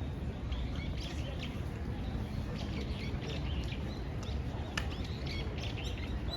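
Small birds chirping and twittering in quick, short calls, over a steady low background rumble.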